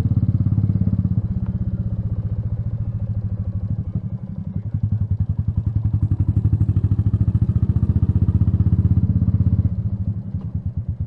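Royal Enfield Meteor 350's single-cylinder four-stroke engine running as the bike is ridden, a rapid even beat of firing pulses. It eases off about four seconds in, pulls louder again a second later, and drops back near the end.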